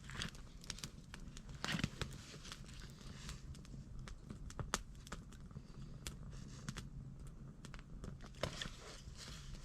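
Wood campfire crackling, with scattered sharp pops at irregular intervals and a brief rustling burst a little under two seconds in.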